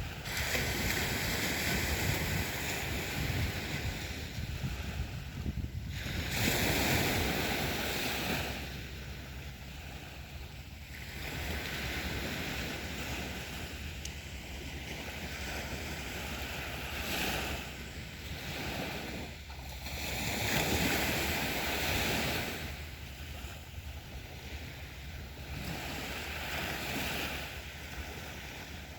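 Sea waves breaking and washing up on a beach, surging and ebbing every few seconds.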